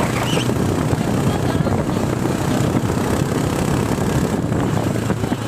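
Motorcycle running along the road, a steady low engine hum under wind noise on the microphone.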